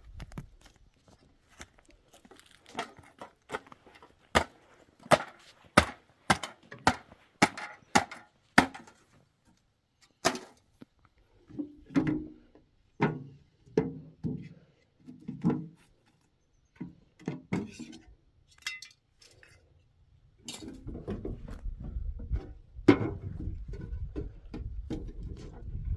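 Wood being struck again and again: a run of sharp chops or knocks about two a second, then duller, heavier thuds. About three-quarters of the way through a steady low rumble sets in under a few more knocks.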